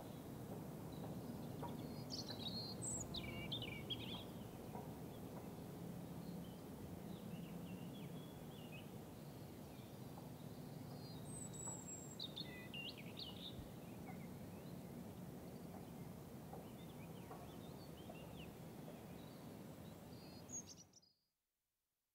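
Faint outdoor ambience: a steady low rumble with scattered bird chirps and twitters in a few short runs, cutting to silence near the end.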